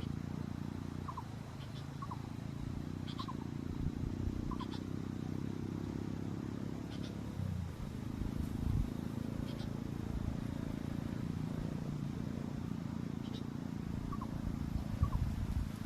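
Strong wind buffeting the microphone as a steady low rumble, with a dozen or so faint, short, downward-slurred bird chirps scattered through it.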